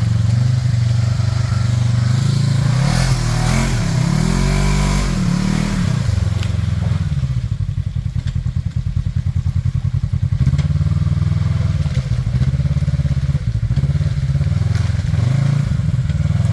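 Side-by-side UTV engine running under way, its pitch rising and falling a few times about three to six seconds in as the throttle is worked, then settling back to a steady, pulsing drone.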